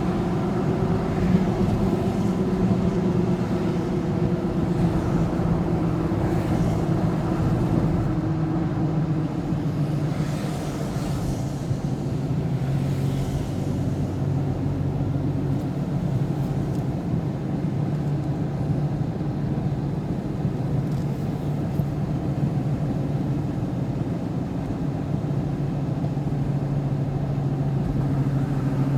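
Motor vehicle driving steadily: a constant engine drone over tyre and road noise. The engine note eases slowly downward over the first half, then holds.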